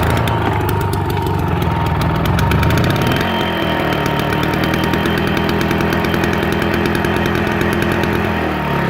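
Small two-cycle engine of a garden trim mower running on choke just after starting, loud and steady; its speed shifts about three seconds in, and its pitch drops near the end as it slows.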